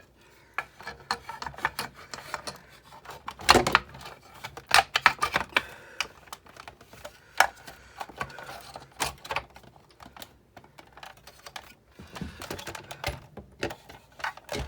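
Irregular clicks, taps and knocks of plastic and metal parts being handled and fitted together on a Sizzix Big Shot die-cutting machine during reassembly, with a louder knock about three and a half seconds in.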